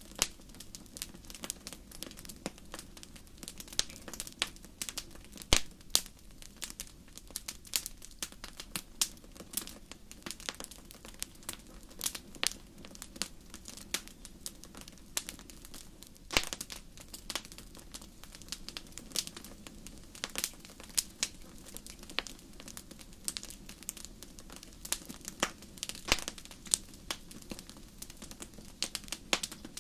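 Fireplace fire crackling, with irregular sharp pops and snaps of varying loudness over a low, steady rumble.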